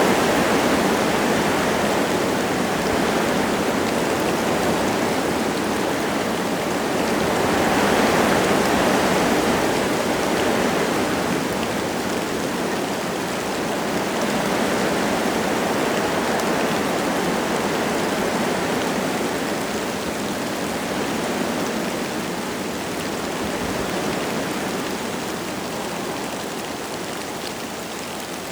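Wind gusting through forest trees with light rain falling, a steady rushing noise that swells and eases in slow gusts, strongest about eight seconds in and fading a little near the end.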